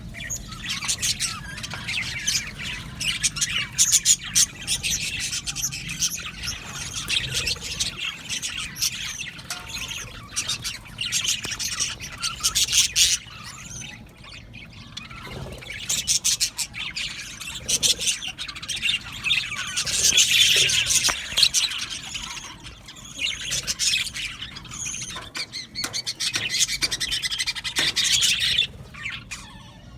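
A colony of budgerigars chirping and warbling together, many birds at once, with brief lulls about halfway through.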